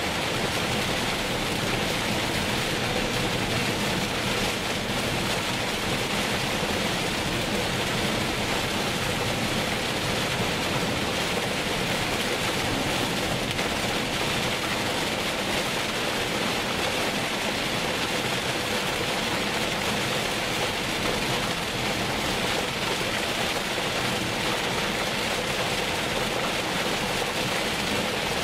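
Heavy rain as a steady, even hiss with no breaks, mixed with the faint low hum of a car driving through it.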